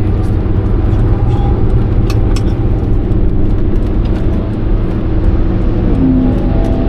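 Alfa Romeo 156 1.9 JTD's four-cylinder turbodiesel engine and road noise, heard from inside the cabin as the car is driven at speed: a loud, steady drone.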